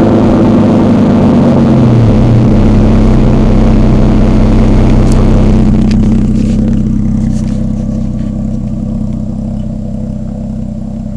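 Mazda KLZE 2.5-litre V6 in a Ford Probe GT idling through a side-exit exhaust, its revs settling back down about two seconds in. From about six seconds in the sound grows steadily quieter and duller while the engine note stays steady.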